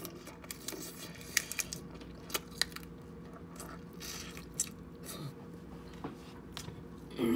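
Eating king crab legs up close: chewing and smacking with irregular sharp clicks and crunches.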